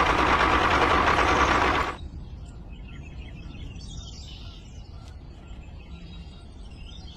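A small motor runs with a steady whine, then cuts off about two seconds in, leaving faint background with a few faint chirps.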